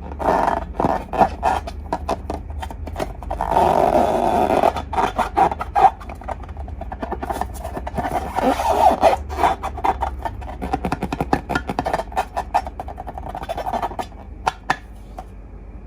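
Slime being pressed and stretched by hand: a dense run of sticky clicks, pops and squelches, with thicker squishing about four and nine seconds in.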